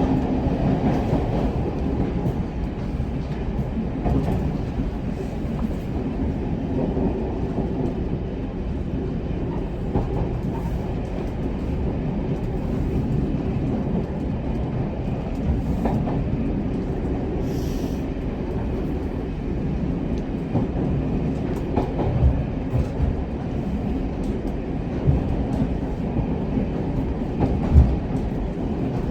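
Single-car diesel railcar coasting at just under 25 mph with the power off, heard from the driver's cab: a steady rumble of wheels on the rails, with a few sharper knocks near the end.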